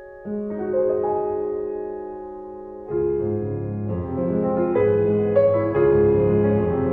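Background piano music: sustained chords, growing fuller with a moving bass line about three seconds in.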